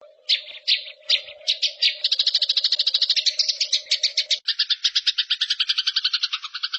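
Recorded songbird call used as a tutor track: a few separate high chirps, then a fast trill of about ten notes a second that changes to a lower, two-toned pattern about four and a half seconds in. A steady low hum runs beneath it and stops at that change.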